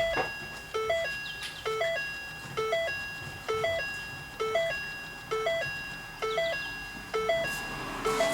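Ford Escape's electronic warning chime repeating a two-note low-then-high tone about once a second, with the car's electrics live again on a freshly reconnected battery. A couple of sharp clicks come near the end.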